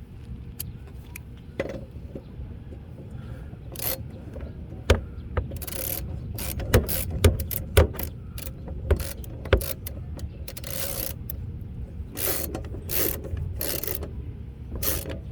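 Hand ratchet clicking and metal tool clunks as the mower's blade bolt is tightened back on, in a run of sharp clicks and knocks with short rasping bursts, over a low steady rumble.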